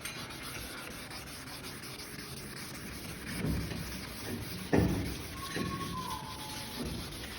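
Sandpaper rubbing steadily over a plastic headlight lens, the sanding stage of a headlight restoration, with a couple of brief louder knocks about three and a half and five seconds in.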